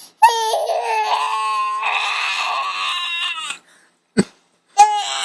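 Dog howl-singing: one long, wavering, high-pitched call of about three seconds, a short knock, then a second howl starting near the end.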